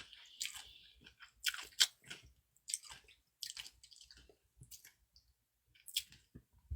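A person chewing food close to the microphone: a string of short, irregular mouth clicks and smacks.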